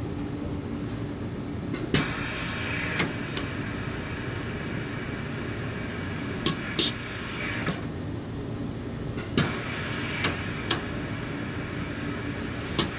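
Steady shop machinery hum with about ten sharp clicks and taps scattered through, some in quick pairs.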